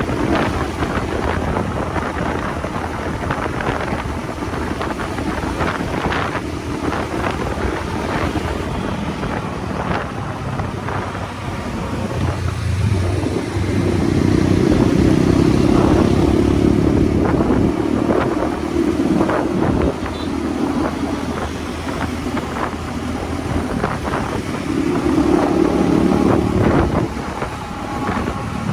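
Motorcycle engine running while under way, with wind rushing over the microphone. The engine note grows louder for several seconds about halfway through, and again briefly near the end.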